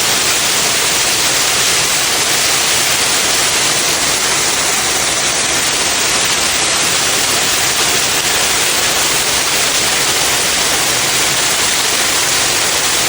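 Heavy rain pouring down steadily: a loud, even hiss that doesn't let up.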